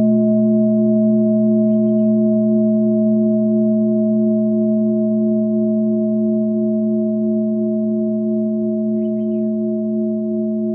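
Singing bowl ringing on with a long sustained tone that slowly fades, no new strike. Small birds outside chirp faintly, briefly, about two seconds in and again near the end.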